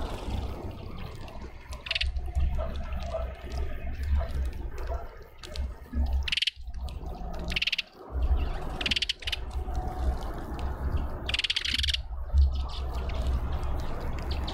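Wild garden birds calling at a feeder: about five short, high calls spaced a few seconds apart, over a steady low rumble.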